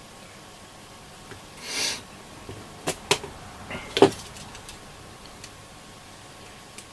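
A brief rustle, then a few sharp clicks and light knocks, the loudest about four seconds in: hands handling the parts of a radio receiver that is being taken apart.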